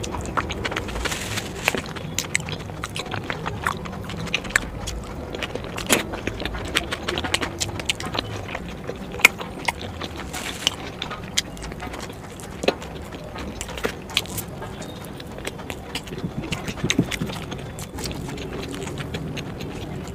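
Close-miked eating: chewing sauce-coated momo dumplings and bites of raw cabbage leaf, with many short, sharp mouth clicks.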